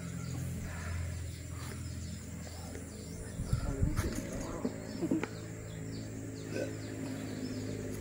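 Bird chirps over a steady low hum, with a few sharp knocks from about halfway through.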